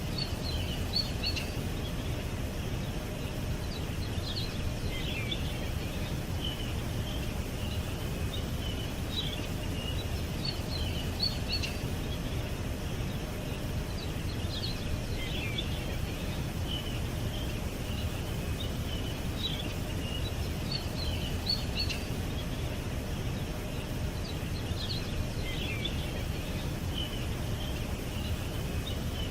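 Songbirds chirping in short, high clusters every few seconds over a steady low background rumble.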